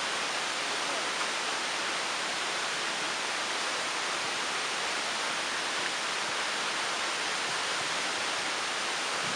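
Steady rushing of a waterfall, an even, unbroken hiss.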